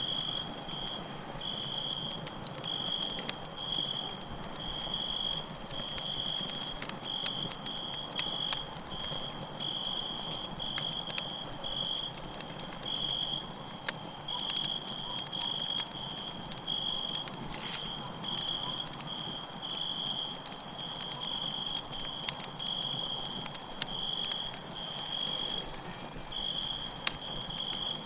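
Campfire crackling with frequent sharp pops, over crickets chirping at one high pitch in short, irregular trills.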